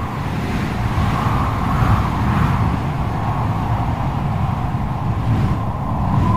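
Strong wind howling in a whirlwind: a whistling note that wavers and swells a second or two in, over a continuous deep rumble of gusts.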